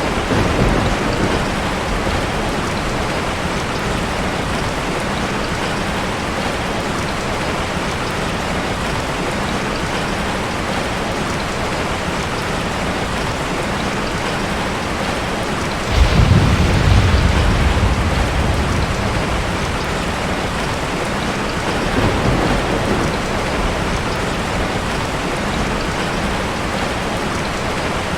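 Heavy rain falling steadily. About halfway through a sudden clap of thunder rumbles and fades over a few seconds, with weaker rumbles near the start and a little later.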